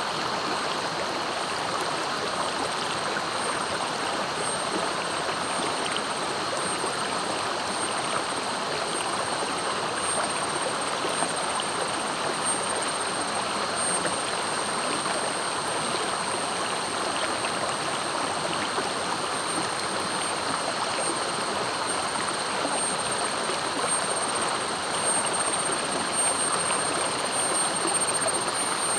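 Fast-flowing river rushing steadily, an even, unbroken water noise, with a thin, steady high-pitched tone running above it.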